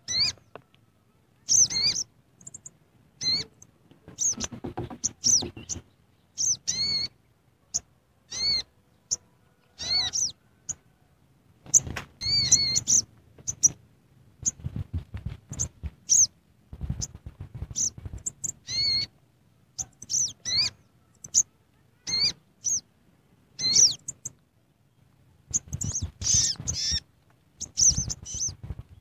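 A bird chirping: short, high calls with overtones, some rising and falling, repeated irregularly about once or twice a second, in clusters.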